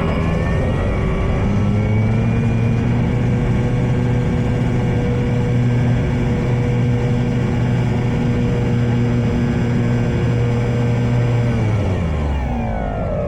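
Electric motor and propeller of an E-flite Draco RC plane whining steadily, rising in pitch over the first couple of seconds and falling away near the end, under heavy wind noise on the microphone.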